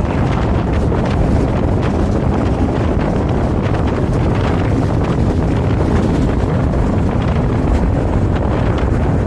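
Vario LF2R.E tram running steadily along the line: a continuous low rolling rumble of wheels on rails with a rush of wind, and faint light ticks from the track.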